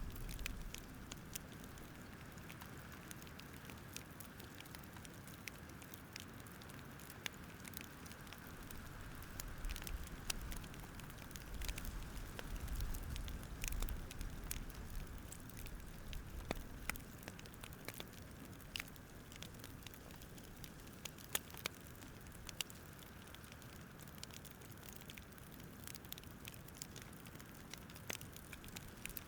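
Campfire crackling: irregular sharp pops and snaps of burning wood over a steady low rustle of the flames.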